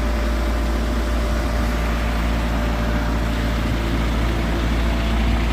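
Kenworth T680 semi truck's diesel engine idling, a steady low hum.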